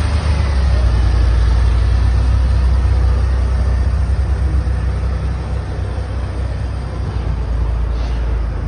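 DeLorean DMC-12's PRV 2.85-litre V6 idling steadily shortly after a cold start.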